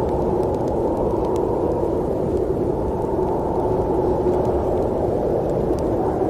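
Blizzard wind blowing as a steady, low, even rush that holds at one level without gusts.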